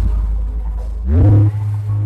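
Bass-heavy electronic dance music from a large carnival sound system. The music thins out briefly, then a stack of rising, sliding tones comes in over a deep bass about a second in.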